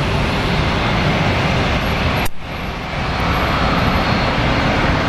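Jet aircraft engine noise, a steady loud rush with a brief dip about two seconds in.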